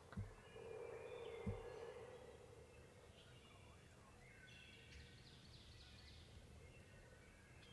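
Faint songbirds singing on and off, with two soft low thumps about a second apart near the start and a brief steady low hum between them.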